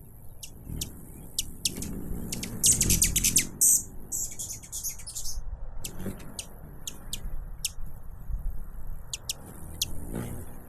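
Hummingbirds giving sharp, very high chip calls scattered throughout, with a rapid chattering run about three seconds in followed by a denser buzzy burst. A low rumble sits underneath.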